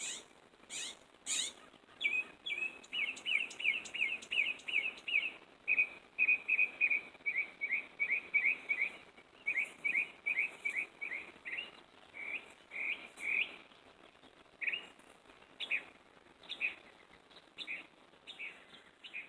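Northern mockingbird singing: quick runs of one short note repeated several times a second, switching to a new note every few seconds, with the notes spacing out towards the end.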